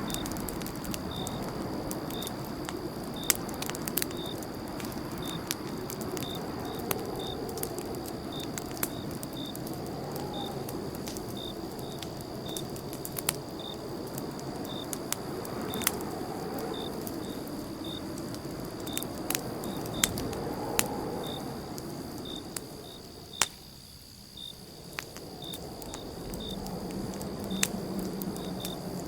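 Campfire crackling, with sharp pops scattered irregularly over a low rushing sound that briefly drops away about three-quarters of the way through. A cricket chirps steadily, about twice a second.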